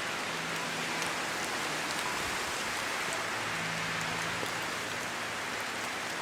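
Steady heavy rain, an even hiss of drops with small scattered patters. A faint low tone comes and goes beneath it.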